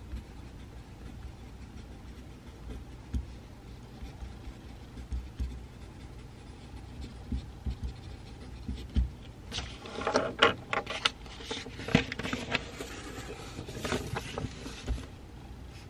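Pencil scratching on paper in a run of quick strokes from about ten seconds in, lasting about five seconds, over a steady low room hum with a few light knocks on the desk.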